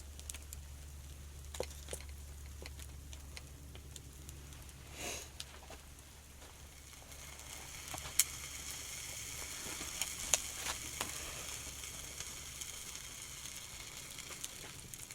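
Food sizzling over a campfire, the hiss growing stronger about halfway through, with sharp crackles and pops here and there.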